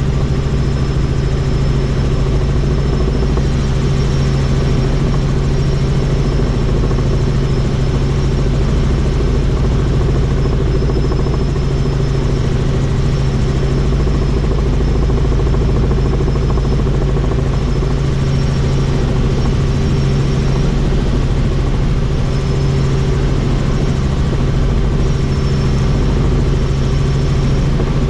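Helicopter in flight: a steady drone of engine and rotor, with a faint high whine that comes and goes.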